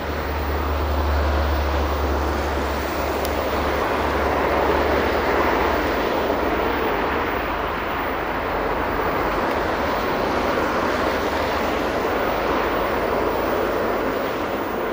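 Freight train of open wagons rolling along the track, a steady noise of wheels on rails, with a low hum in the first few seconds that fades out.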